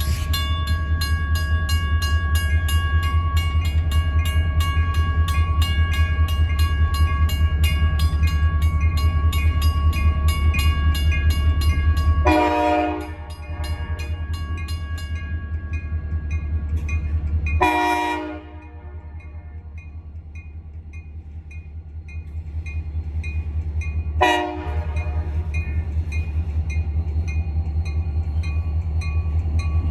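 Wheeling and Lake Erie freight train rumbling past with a steady, rapid pulsing, while the locomotive horn sounds a long held chord for about the first twelve seconds. The sound breaks off abruptly three times, around twelve, eighteen and twenty-four seconds in, and the rumble comes back each time.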